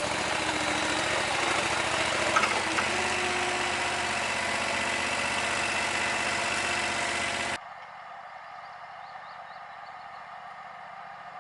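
A small petrol engine running steadily, its pitch shifting slightly about three seconds in. About seven and a half seconds in it breaks off abruptly, leaving a much quieter background with a few faint high chirps.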